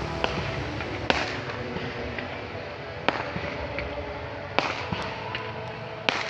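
Fireworks bursting in the sky: about five sharp bangs at uneven intervals with a few fainter pops between them, over steady background noise.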